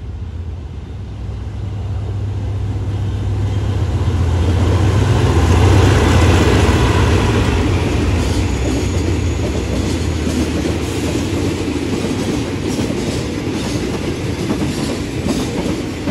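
A State Railway of Thailand GEA-class diesel locomotive passing through at speed: its engine drone builds to loudest about five or six seconds in as it goes by. It is followed by a long string of loaded tank wagons rolling past with a steady clickety-clack of wheels over the rail joints.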